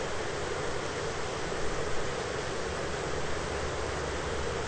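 Steady rain from a thunderstorm recording: an even, unbroken hiss with no thunderclap.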